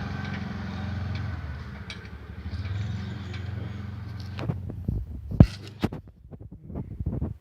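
A motor vehicle engine running with a low steady hum, fading away over the first four seconds. Then a run of sharp knocks and clicks, the loudest about halfway through.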